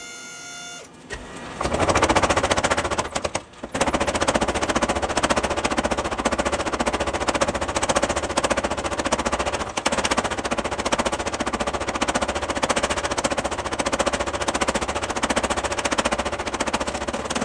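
Power hammer pounding hot leaf-spring steel in a rapid, steady run of strikes, with a brief pause about three and a half seconds in.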